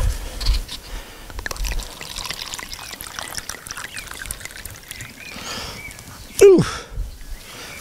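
Liquid being poured and gurgling with small clicks, most likely wine poured from a bottle. About six and a half seconds in, a short loud sound sweeps sharply down in pitch.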